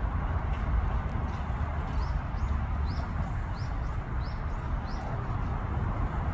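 A bird giving six short, high chirps that slide upward, about half a second apart, starting about two seconds in, over a steady low rumble.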